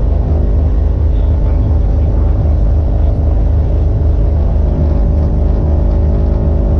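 Piper Aztec's twin piston engines running steadily at low power, a loud, even drone with a low throb.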